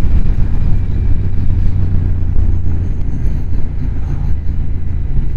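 Motorcycle ridden at speed, its engine running steadily under a dense low rumble.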